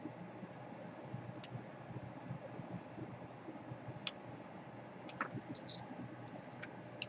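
Sparse small clicks and taps, with a quick run of several about five seconds in, over a faint steady hum: small parts and tools being handled while a laptop is taken apart.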